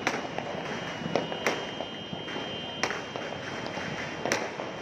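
Distant New Year fireworks and firecrackers going off across a city: about five sharp bangs spread over a few seconds, above a steady background of scattered crackling pops.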